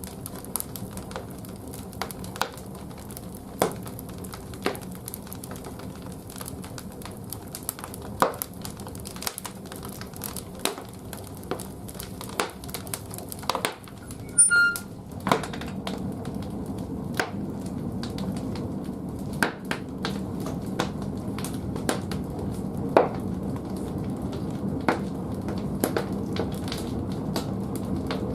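Large firewood burning in the firebox of a wood-fired bathhouse boiler: a steady low rumble of the fire with irregular sharp crackles and pops. About halfway there is a brief louder clatter with a short ring, after which the rumble grows louder.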